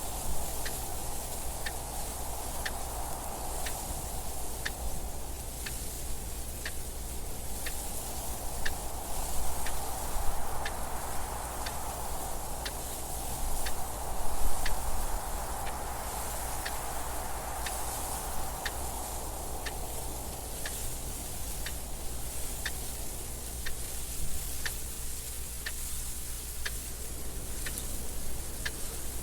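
A clock ticking steadily and evenly over wind noise that rises and falls, swelling louder twice in the first half, with a steady low hum underneath.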